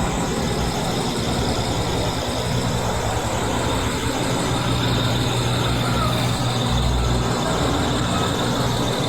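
Semi truck engine running steadily, an even low hum.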